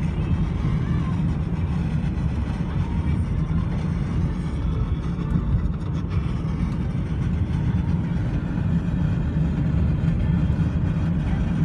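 Steady low rumble of a car driving: engine and road noise, with no distinct events.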